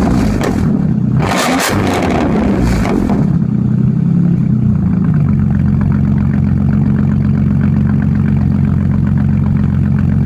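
Straight-piped 2004 Dodge Dakota 3.7 L V6 revved high twice, with a brief lift of the throttle between the revs. About three seconds in the revs fall away, and it settles into a steady, rumbling idle.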